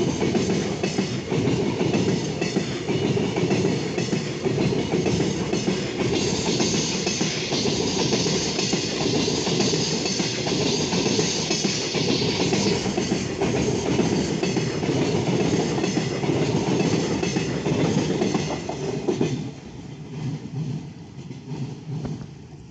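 Freight train's wagons rolling past, wheels clattering over rail joints in a dense, continuous rattle. The noise drops off sharply about nineteen seconds in.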